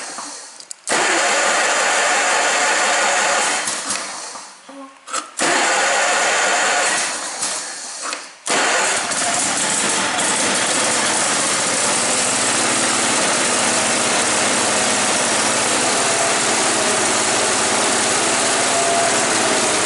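SS16 garden tractor engine cold-started: it is cranked for about three seconds without catching, cranked again, and catches about eight seconds in, then runs steadily. The engine is due for new points and a condenser.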